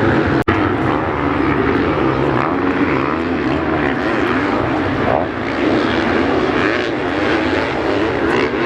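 Several motocross bikes' engines running and revving together, their overlapping pitches rising and falling. The sound cuts out briefly about half a second in.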